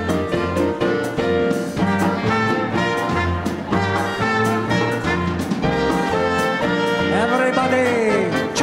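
Live dance band with a brass section of trumpets and trombones playing a Latin dance number over a steady, even bass beat. Near the end, sliding, swooping notes cut through the held brass chords.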